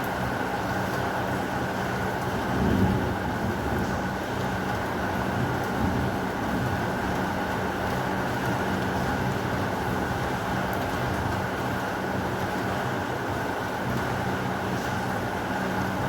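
Steady heavy rain with a low rumble of thunder underneath, swelling briefly about three seconds in.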